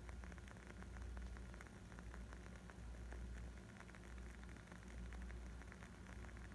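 Wood fire crackling: a dense, irregular run of small snaps and pops over a low, steady rumble.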